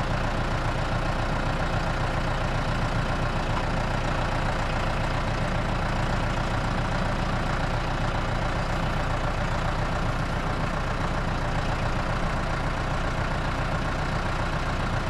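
Heavy engine idling steadily, an even low rumble with no change in speed.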